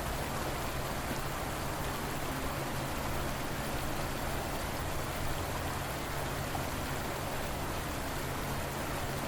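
River water flowing in a steady, unbroken rush, with a low steady rumble beneath it.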